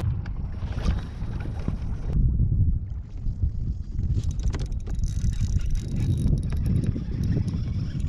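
Wind rumbling on the microphone and water lapping at a kayak, with scattered light knocks and clicks from about four seconds in.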